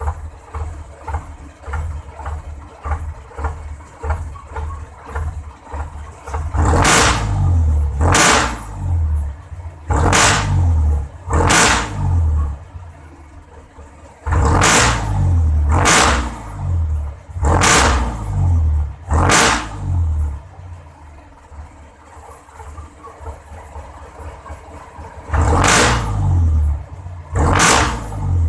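Passenger jeepney's engine breathing through a new all-stainless muffler: it idles with a low chug, then is revved hard in three runs. Each run is punctuated by sharp popping cracks from the exhaust, about one to two a second.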